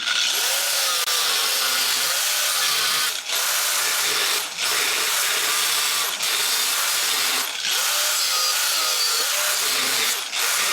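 Angle grinder with a cut-off disc cutting through 3 mm steel sheet. It runs loudly and steadily, its whine wavering under load, and the noise drops briefly about five times.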